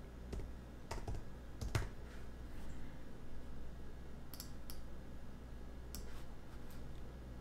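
Faint, scattered keystrokes on a computer keyboard and mouse clicks, about seven separate clicks spread unevenly, as a line of text is finished and its box selected.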